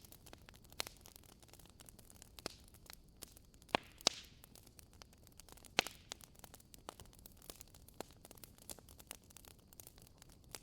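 Wood fire crackling in a fireplace: irregular sharp pops and snaps over a faint hiss, with a few louder pops in the middle and a short hiss of escaping gas around one of them.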